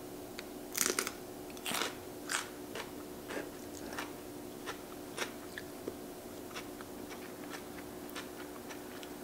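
Close-up crunchy chewing of a raw Korean green chili pepper, with several loud crunches in the first couple of seconds, then fainter, sparser chewing.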